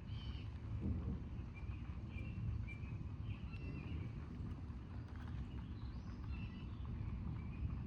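Steady low outdoor rumble, with short high bird chirps scattered through it.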